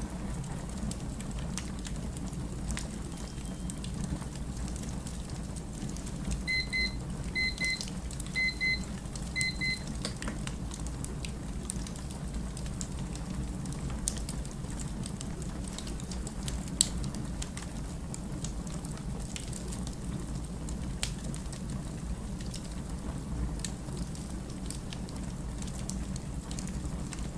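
Wood fire burning with a steady low rumble and scattered crackles and pops. About six seconds in, an electronic beep sounds four times, each a quick double beep, about a second apart.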